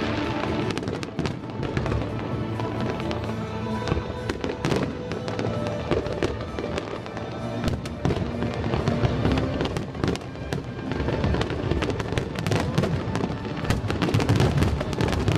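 Fireworks bursting: a rapid series of bangs and crackles, busier near the end, over music playing.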